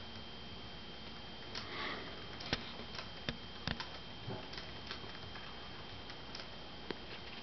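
Sleeping miniature dachshund breathing, with one soft snuffling breath about two seconds in, followed by a few light clicks, all faint over a steady hiss.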